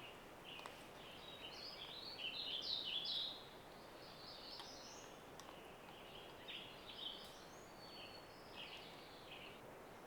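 Songbird singing in the forest: rapid jumbled phrases of high chirping notes, loudest in a burst about two to three seconds in, then several shorter phrases, over a faint steady background hiss.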